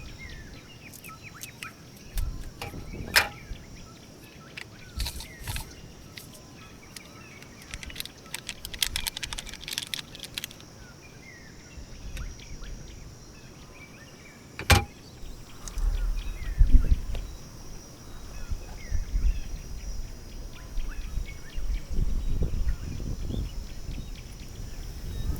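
Outdoor ambience at a campsite: scattered clicks and knocks over a steady high-pitched hum, with low gusts of wind rumbling on the microphone through the second half.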